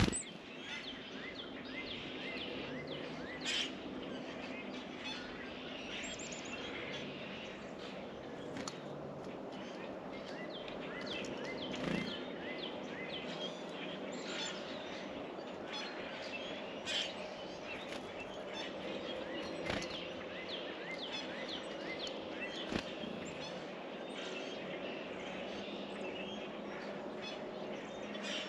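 Small birds chirping and calling again and again, in short quick notes, over a steady outdoor background hum, with a few sharp knocks in between.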